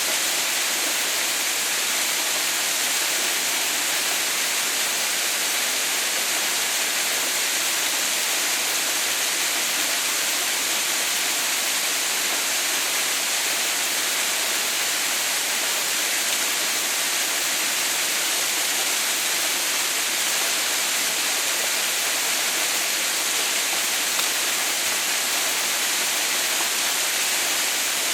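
Waterfall: falling water making a constant, even hiss that is strongest in the high range and never changes.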